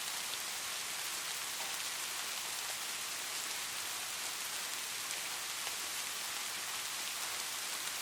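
Light rain falling steadily, an even hiss with fine scattered drop ticks.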